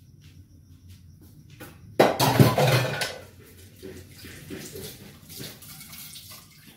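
Kitchen dishes and utensils being handled: light clinks and knocks, with a loud, noisy clatter about two seconds in that lasts about a second.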